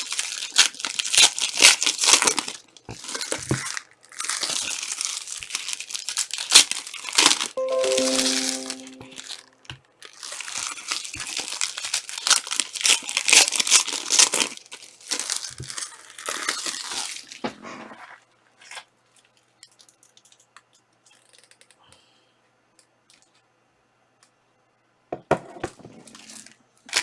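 Panini Prizm soccer trading-card pack wrappers being torn open and crinkled in several bursts. A short musical tone sounds about eight seconds in. The last third is much quieter.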